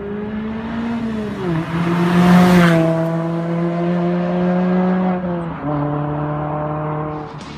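Mazda MX-5 Miata four-cylinder engine running through an aftermarket Borla exhaust as the car drives by, its exhaust note dropping in pitch twice, about a second and a half in and again near the end. A rush of road and wind noise swells as it passes closest, about two and a half seconds in.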